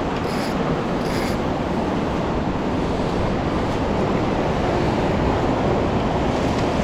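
Steady rushing noise of ocean surf mixed with wind buffeting the microphone.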